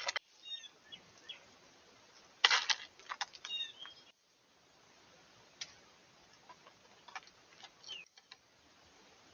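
Small birds giving short chirping calls, mixed with sharp clicks and taps, the loudest a cluster about two and a half seconds in; the sound breaks off abruptly twice.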